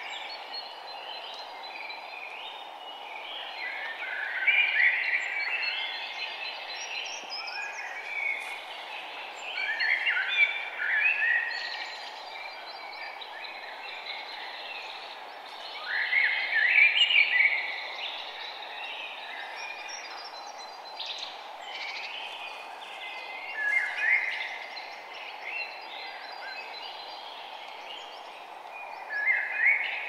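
Songbirds chirping and twittering in short bursts of song about every six seconds, over a steady background hiss.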